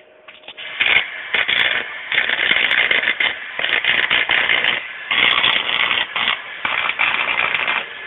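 Electric arc welding crackling in a series of bursts of one to two seconds each, with short pauses between them.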